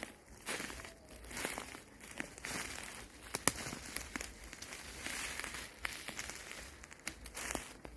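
Footsteps crunching through dry leaf litter on a woodland floor, a steady run of crinkling steps with a few sharp twig snaps, the loudest about three and a half seconds in.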